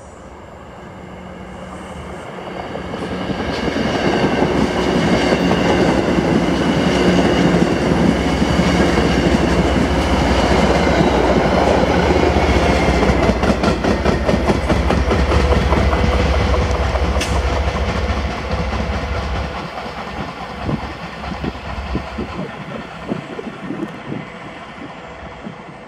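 MBTA commuter rail train passing close by: a diesel locomotive's engine rumbling while the coaches roll past and the wheels click over the rail joints. It builds over the first few seconds and is loudest through the middle. About two-thirds of the way through the deep rumble drops away, leaving fainter, uneven wheel clicks.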